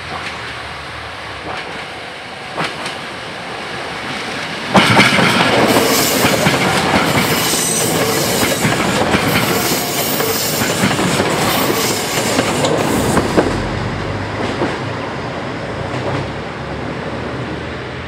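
Kitakinki Tango Railway 'Tango Explorer' diesel express railcar (KTR001) approaching and passing close by. The noise builds, then about five seconds in it suddenly gets loud as the cars go past, with wheels clacking over the rail joints. It fades away over the last few seconds.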